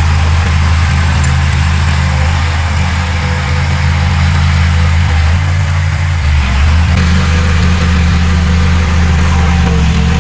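Heavy diesel engine of an earthmoving machine running steadily with a deep, low note that shifts slightly about six seconds in.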